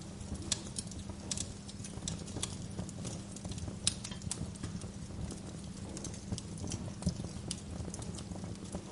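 Wood fire crackling in a fireplace: irregular sharp pops and snaps, several a second, over a steady low background hum.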